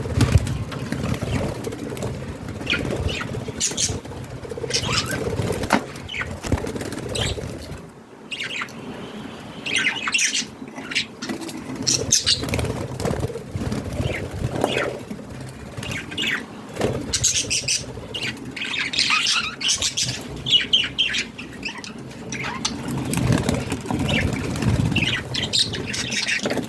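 Budgerigars chirping and chattering in short high calls, with wings flapping and fluttering now and then.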